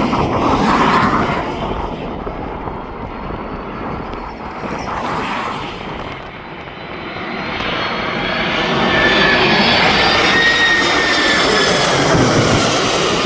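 Passing airliner's jet engines: a steady rushing noise that builds over several seconds, with a high whine rising in about halfway through and easing slightly near the end.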